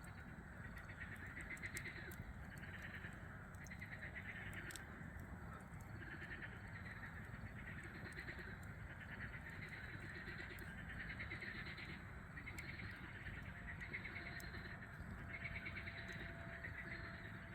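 A chorus of frogs calling in repeated pulsing bouts about a second long, with scattered crackles and pops from a campfire.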